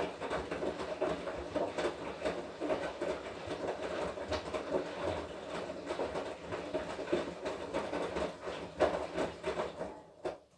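Washing machine running a wash cycle, its drum turning the laundry with an uneven churning clatter that stops near the end.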